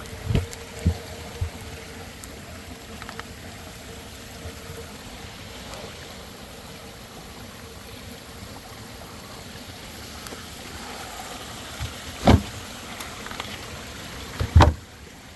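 Water falling and trickling steadily through a koi pond's Bakki shower filter. Two sharp, loud knocks come near the end, about two seconds apart.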